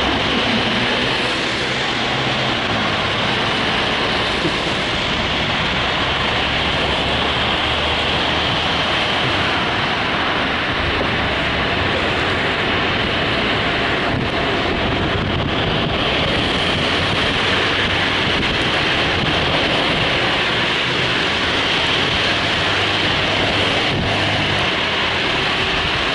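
Steady road and wind noise of a car driving along, an even rushing with no breaks.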